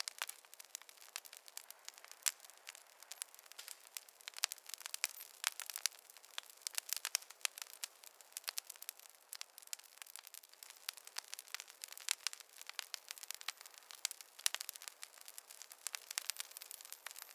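Wood campfire crackling, with many sharp, irregular snaps and pops coming close together.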